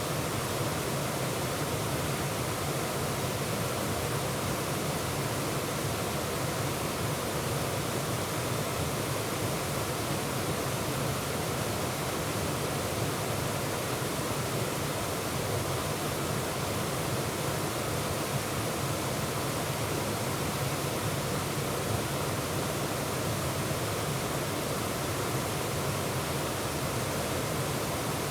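A small woodland waterfall rushing steadily, close at hand, with no change in level.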